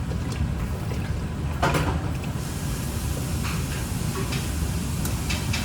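Kitchen handling sounds: a few knocks and a short clatter of cookware or utensils over a steady low rumble.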